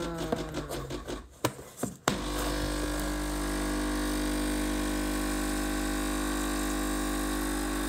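Espresso machine's pump running with a steady, even hum as a shot of coffee is pulled, starting after a click about two seconds in.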